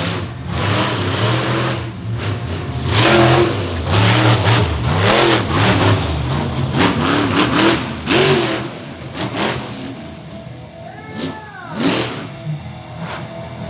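Monster truck engine revving hard in repeated bursts, with the pitch surging up and dropping back several times and one swooping rise and fall near the end.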